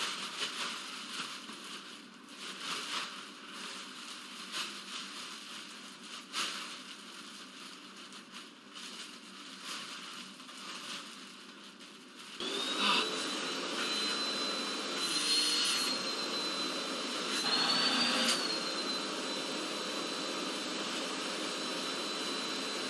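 Rustling and handling noises, then about halfway through a vacuum cleaner switches on and runs steadily with a high whine over a rush of air. The whine rises briefly in pitch twice as the vacuum sucks the air out of a bag closed around a person's body.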